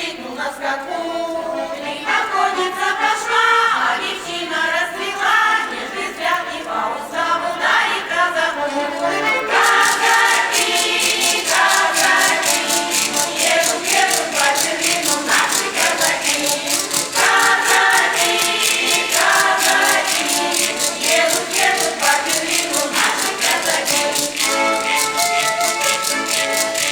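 A choir singing a song. About a third of the way in, a rattle or shaker joins with a fast, even beat under the voices.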